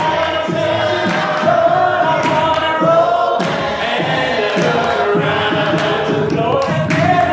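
Church congregation singing a gospel song in long held notes, with a steady beat.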